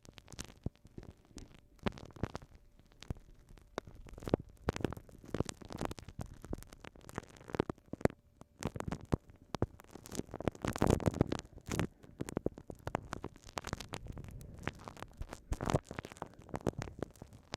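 Glue stick worked over a binaural microphone, making dense sticky crackling and clicking. The crackling is thickest around ten to twelve seconds in.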